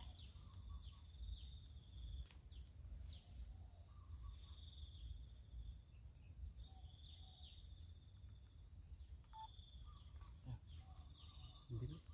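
Faint small-bird calls: short trilled notes repeating every second or two, with quick higher chirps, over a low wind rumble. A soft bump sounds near the end.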